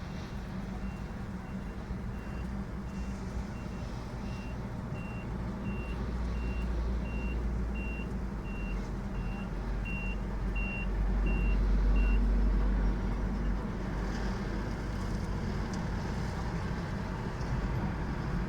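Heavy truck's diesel engine running with its reversing alarm beeping evenly, about one and a half beeps a second; the beeping stops about two-thirds of the way through as the engine grows louder for a couple of seconds.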